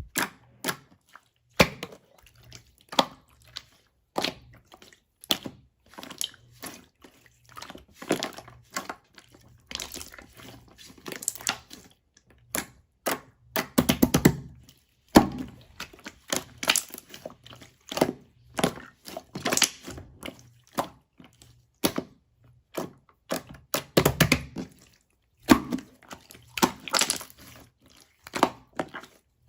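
Clear slime being squished and pressed by hand: an irregular run of sticky clicks and pops, with a few longer, wetter squelching stretches.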